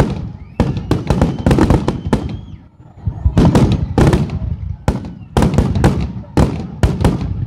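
Finale barrage of aerial fireworks shells: many sharp bangs in quick succession, with a short lull about two and a half seconds in before the bursts pick up again.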